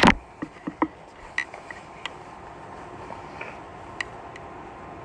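A few light, separate clicks and taps, most of them in the first two seconds and one about four seconds in, over a faint steady background hum.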